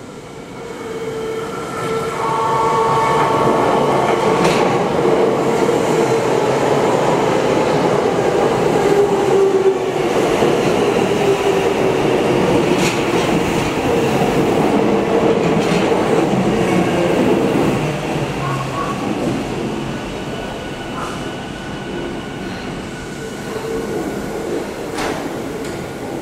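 Saitama Railway 2000 series electric train running by, with wheel-on-rail rumble, a few clicks and a whining motor tone. It builds over the first few seconds, stays loud, then fades in the last third.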